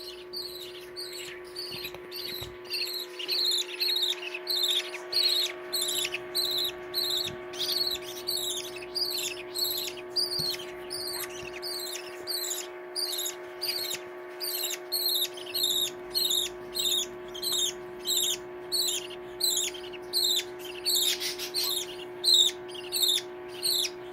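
Baby budgerigar chicks calling over and over, short high chirps that fall in pitch, about two a second. A steady hum runs underneath.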